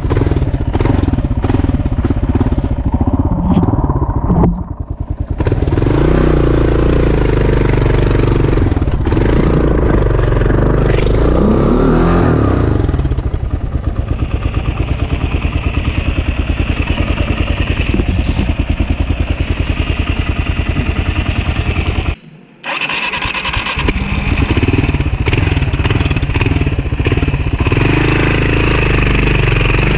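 Dual-sport motorcycle engine running under way on a dirt track, pulsing steadily, with rushing wind and ride noise. The sound briefly drops away twice.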